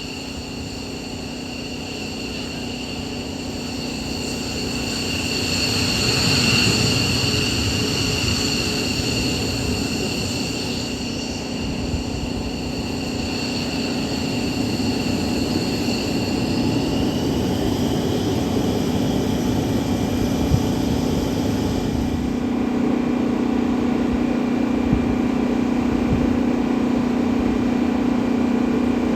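F-15E Strike Eagle's twin jet engines running with a steady high turbine whine over a low drone, swelling to a peak about six seconds in and then easing. The whine rises slightly in pitch past the middle and drops away about three-quarters of the way through, leaving a steady lower drone.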